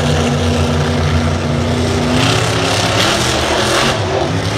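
Monster truck engine running loud and steady, with a burst of wider noise from about two to four seconds in.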